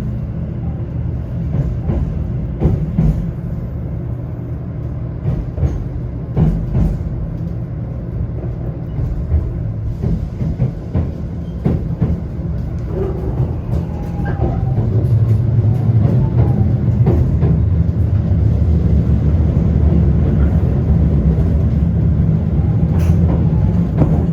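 Shinkansen train running on the line, a steady low rumble with occasional clicks. It grows louder about halfway through and stays louder.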